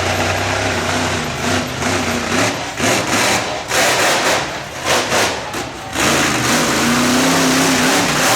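Monster truck engine revving hard in repeated bursts, its pitch rising and falling as the throttle is opened and closed.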